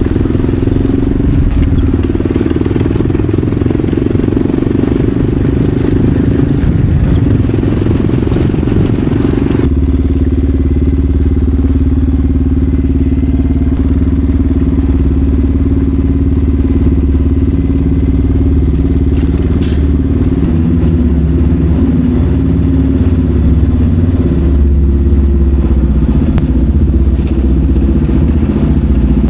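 Engine of an old Ford F-150 pickup running steadily. About ten seconds in the sound changes abruptly and turns deeper and heavier.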